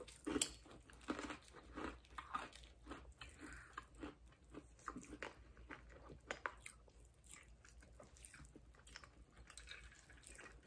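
Faint, close-miked chewing and crunching of candy, with a run of irregular small crackles and clicks.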